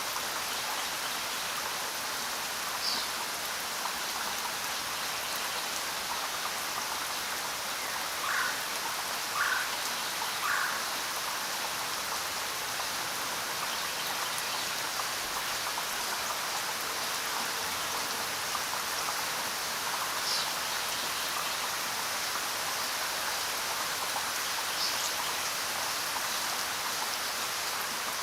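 Steady rain falling, an even hiss. A few short, sharper sounds stand out, three in quick succession about eight to ten seconds in.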